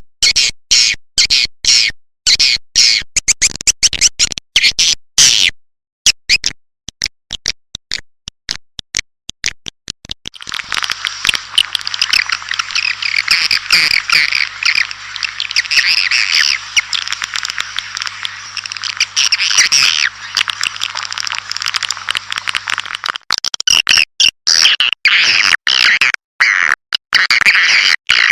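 Recorded swiftlet calls used as a lure sound to draw swiftlets into a bird house to roost and nest. Rapid sharp chirps give way about ten seconds in to a dense chattering chorus over a faint low hum, and sharp chirps return near the end.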